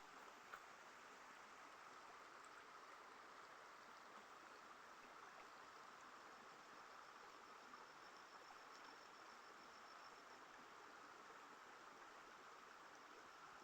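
Faint, steady outdoor background hiss, with a faint high insect trill coming in about six seconds in, dropping out, and returning near the end.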